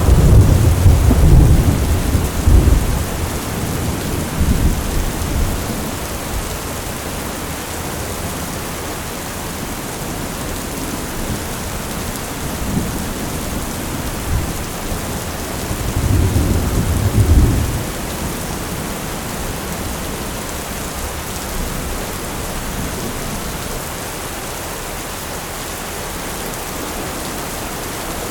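Heavy rain falling steadily through a thunderstorm, with rolling thunder rumbling loudly at the start and again about two-thirds of the way in.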